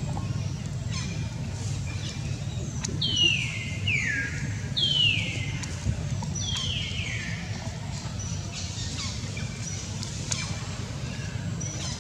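A bird calling: five clear whistled notes, each sliding down in pitch, mostly in close pairs, over a steady low rumble.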